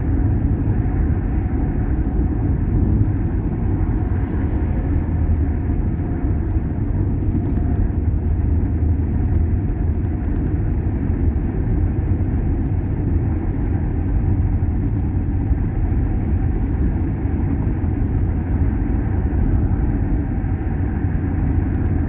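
Steady low rumble of a car driving on the road: engine and tyre noise, even in level with no sharp events.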